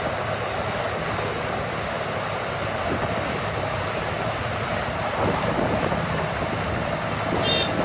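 A steady, even rushing noise at a constant level, with a faint short high tone near the end.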